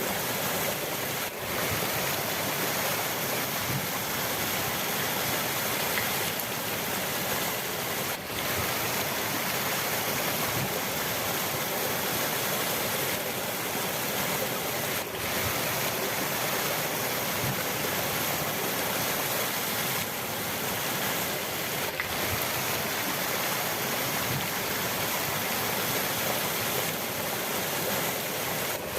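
Steady rush of flowing river water, an even wash of sound with brief dips in level about every seven seconds.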